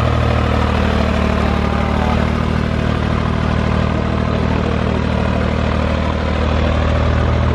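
John Deere farm tractor's diesel engine running steadily close by, a deep even drone.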